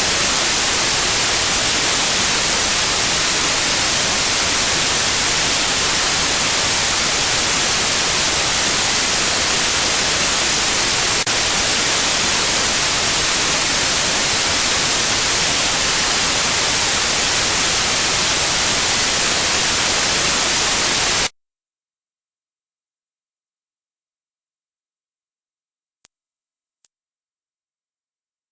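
White noise with a steady high-pitched 9645 Hz tone over it, a synthetic tinnitus-therapy signal. The tone drops out for an instant about a quarter of the way in. About three quarters through, the noise cuts off suddenly and the tone carries on alone.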